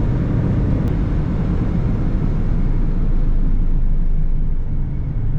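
Steady road and engine noise heard from inside a moving vehicle's cabin, a dense low rumble.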